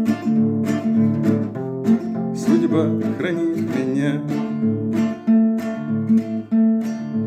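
Acoustic guitar strummed in a steady rhythm, the instrumental close of a song, with a short wavering melody rising over the chords about halfway through.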